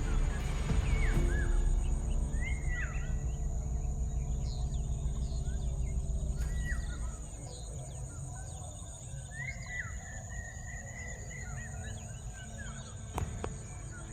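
Birds chirping in short, quick calls over a steady high-pitched insect drone. Background music underneath fades out about seven seconds in. A single sharp click comes near the end.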